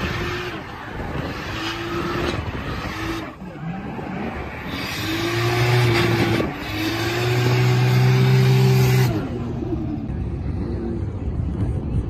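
Toyota Chaser's turbocharged straight-six engine heard from inside the cabin on a drift run, the revs swinging up and down with the throttle, dipping, then held high and steady for a few seconds before cutting off sharply about nine seconds in.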